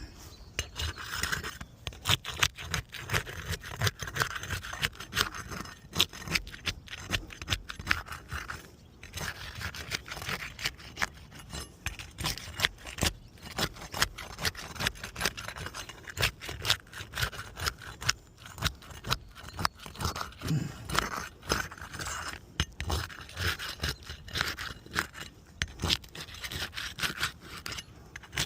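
Gritty scraping and crunching against roof shingles: a long run of sharp, crackly clicks and scrapes with a short pause about nine seconds in.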